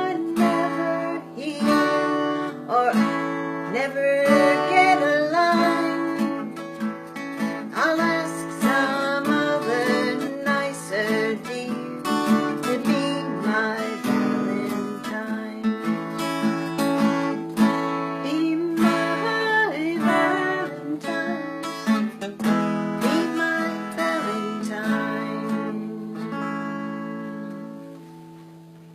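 Acoustic guitar being strummed and picked through a song, dying away near the end.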